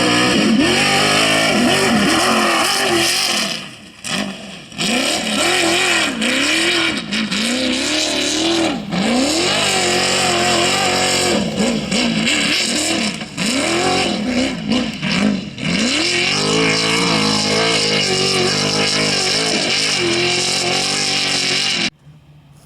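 Off-road race vehicle engines at high revs, the pitch climbing and dropping again and again through gear changes and lifts as the vehicles race past. It dips briefly twice in the first few seconds and cuts off suddenly near the end.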